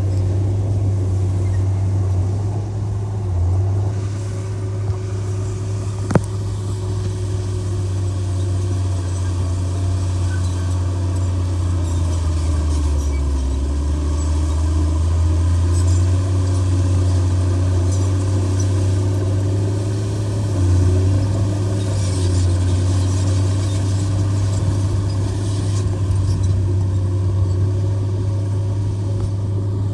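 Heavy diesel engine of earthmoving machinery running steadily, its pitch dropping briefly about halfway through, with a single sharp click about six seconds in.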